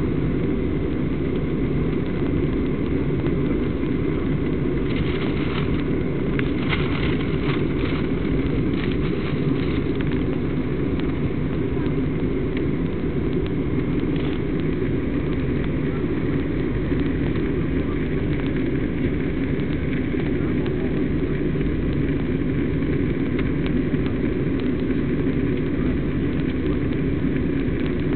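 Steady engine and airflow noise inside an aircraft cabin in flight, constant in level, with a few faint crackles about five to ten seconds in.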